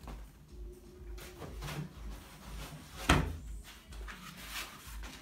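Packing foam being pulled and handled inside a shipping box, with one sharp knock about three seconds in.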